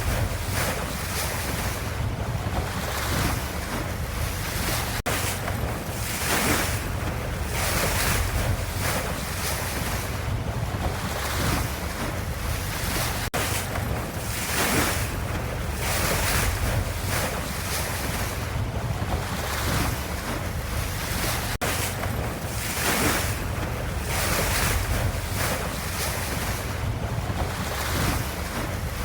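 Ocean waves washing in a steady rush of water that swells and eases every second or two, with a brief break roughly every eight seconds.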